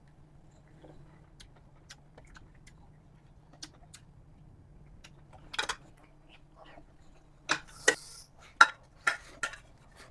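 Eating utensils clinking and scraping against a dish: a few faint ticks at first, then a run of sharper, louder clinks in the second half.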